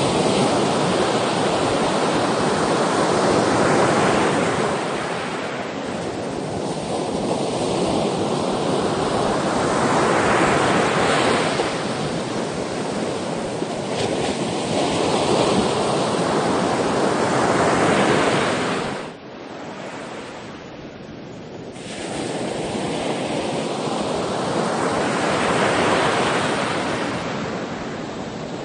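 Sea waves surging in and washing back in slow swells, one rise and fall every few seconds. About two-thirds of the way through there is a quieter, duller lull of a few seconds before the surf builds again.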